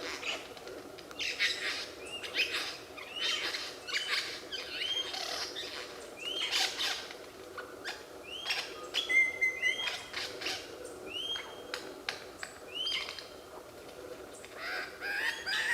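A bird calling in a run of short upswept chirps, about two a second, with a brief steady whistle about nine seconds in.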